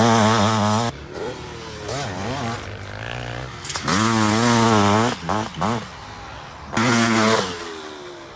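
Two-stroke motocross bike engines revving hard, the pitch rising and falling with the throttle. Loud high revs cut off about a second in, then come back in several surges, with loud bursts around the middle and near the end.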